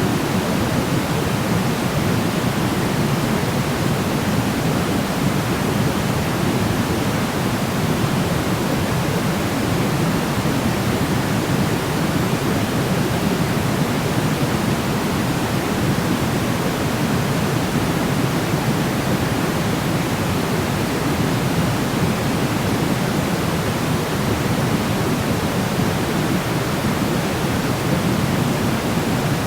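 Steady, unchanging noise with no events in it, fuller in the low range than the high: sleep-aid 'white noise' with a deeper, pink-noise tilt.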